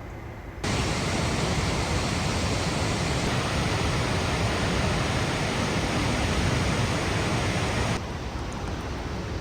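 Rushing water: a steady, even rush that starts abruptly under a second in and drops suddenly to a quieter rush about eight seconds in.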